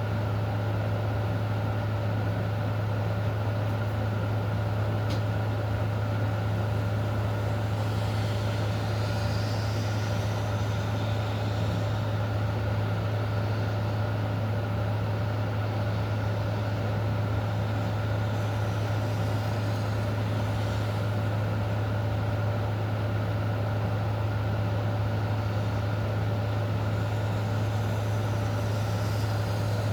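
Steady low hum of a running motor, with a few fixed tones and an even noise under it, unchanging throughout.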